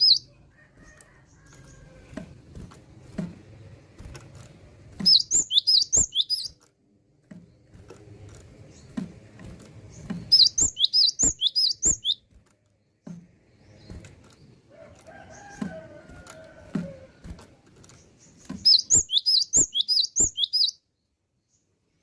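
Cinereous tit (gelatik batu) singing: three bursts of rapid, repeated high chirping notes, each lasting a second or two, with pauses between them. Faint sharp clicks run through the gaps.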